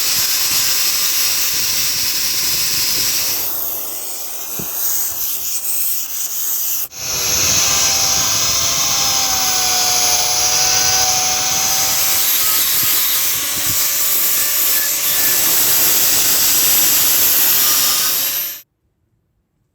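Power tool abrading rust off the heater's steel parts: a steady whine with a harsh scraping hiss that varies as the tool is worked against the metal. It cuts out for a moment about a third of the way in, starts again, and stops suddenly near the end.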